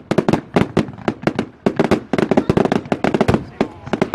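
Fireworks display going off: rapid, overlapping bangs and crackles, several a second and without a break.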